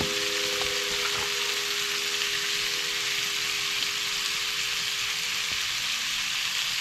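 Salted beef frying in a pan on a small camp stove, with a steady sizzling hiss. Faint background music with held notes fades out about five and a half seconds in.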